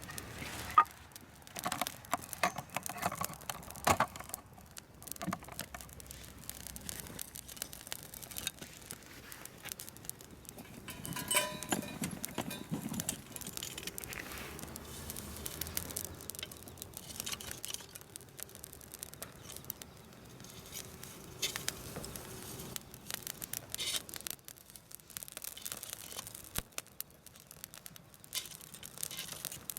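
Irregular rustling and crinkling with scattered sharp clicks and taps, like gear or packaging being handled.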